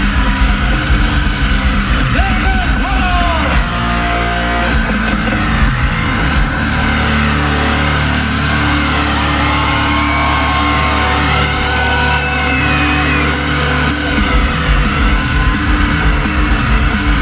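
Loud live rock band music: a full band playing with a bending melodic line, voice or lead guitar, over the top.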